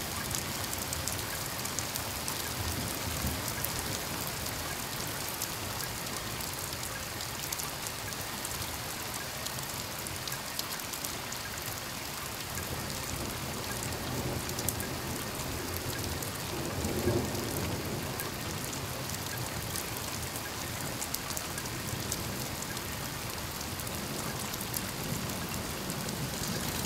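Steady rain: a continuous dense hiss full of small drop hits.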